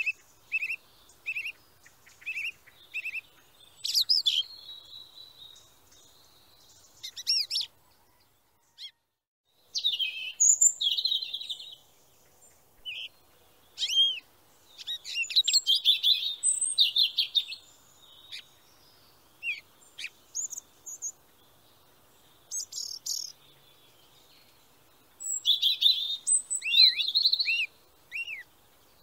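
Small birds chirping and calling in quick bursts of high notes, some sweeping down in pitch, with pauses between the bursts and a brief break about eight seconds in.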